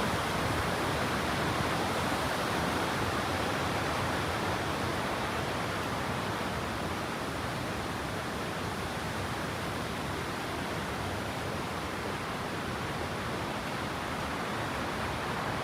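Waterfall: a steady rush of falling water with no breaks, easing slightly in level toward the end.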